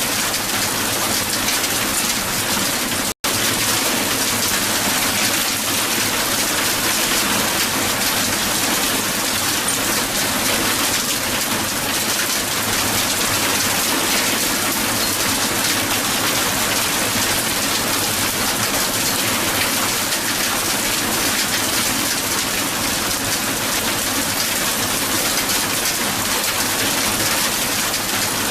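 Hail falling hard onto a hard surface: a dense, steady patter of countless small impacts, which cuts out for an instant about three seconds in.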